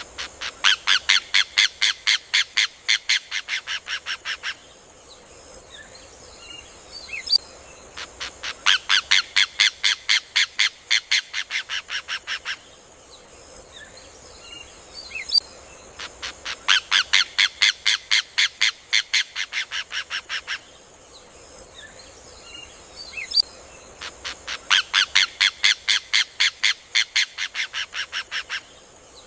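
Rufous hornero (João-de-barro) song: four loud bursts of rapid notes, about six a second, each burst lasting about four seconds and dropping in level toward its end, repeating every eight seconds.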